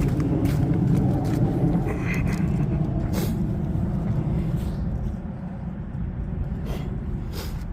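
A train passing, a steady low rumble with a few scattered clicks, easing off a little after about five seconds.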